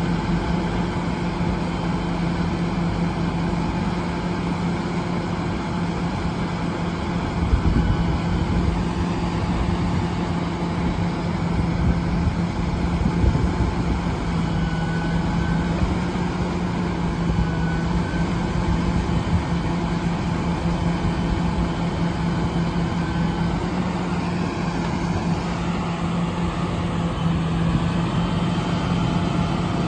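Western Star truck's diesel engine running steadily at an even, unchanging pitch, with a couple of brief louder bumps.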